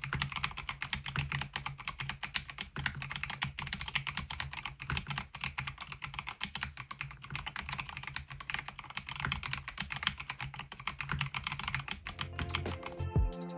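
Fast, continuous typing on a MelGeek Mojo68 mechanical keyboard fitted with KiiBOOM Pastel Y2K MOA-profile keycaps: a dense run of keystroke clicks. Music comes in near the end.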